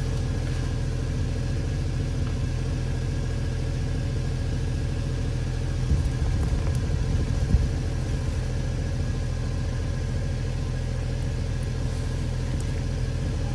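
Jeep Wrangler JK engine running steadily at a raised idle of about 1,650 rpm. A couple of small knocks come about six and seven and a half seconds in.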